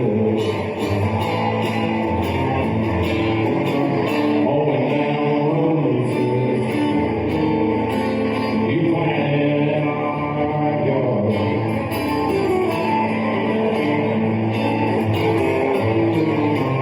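Live country band playing, with guitars prominent and some singing.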